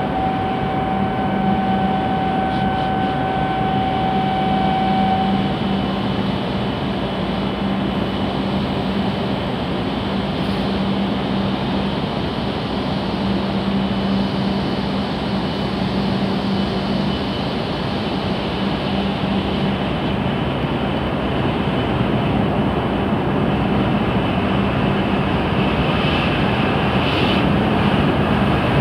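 E7 series Shinkansen standing at the platform, its onboard equipment giving a steady hum under the station's machine noise. A steady electronic tone sounds for the first five seconds or so. Near the end the train starts to pull away and the sound grows louder.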